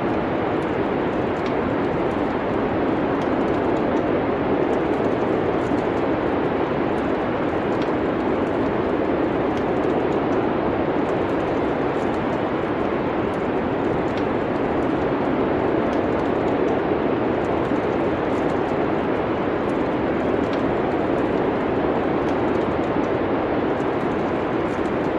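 Steady rushing noise of wind in a snowstorm ambience, with faint scattered crackles of a wood fire on top.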